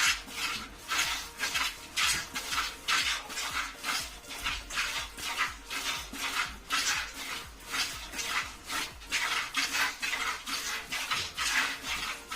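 A buffalo being milked by hand: jets of milk squirting into a pail in a steady rhythm, about two to three squirts a second.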